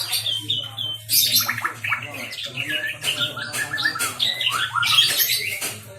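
White-rumped shama (murai batu) singing a fast, varied song of clear whistles, rapid trills and harsh chips, with hardly a pause.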